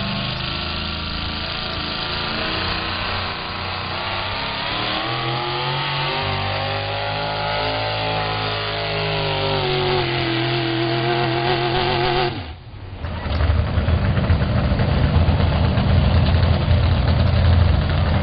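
4x4 pulling truck's engine running hard under load, its pitch climbing and falling over several seconds. About twelve seconds in the sound cuts out briefly, then comes back as a louder, lower rumble.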